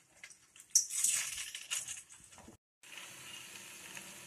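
Ring murukku deep-frying in hot oil in a steel pan: a louder stretch of sizzling and crackling starting about a second in as more dough rings go into the oil, then after a brief gap a steady, even sizzle.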